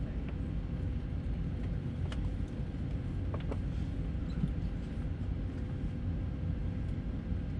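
Cabin noise inside an Airbus A319-112 with its CFM56 engines running: a steady low rumble under a constant hum, with a few faint clicks.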